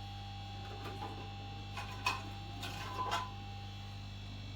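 Steady electrical hum from the repair bench, with a few light clicks and taps about one, two and three seconds in, as small tools or circuit boards are handled.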